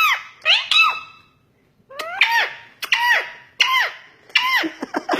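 Pet parrot giving a series of short squeaky calls, about six in all, each rising and then falling in pitch, with a pause of about a second after the first two.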